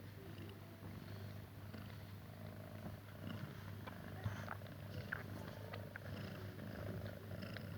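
Domestic cat purring steadily, with faint scattered ticks and rustles and one sharper tick about four seconds in.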